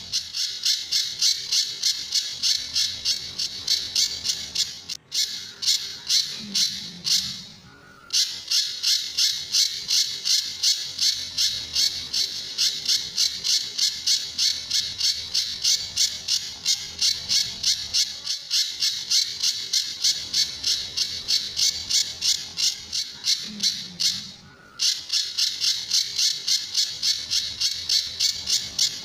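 Pijantur bird calling in a fast, even string of sharp, high, clipped notes, about three a second, with a few brief breaks. These are the 'tembakan' (shot-like) calls that bird keepers play to train other songbirds.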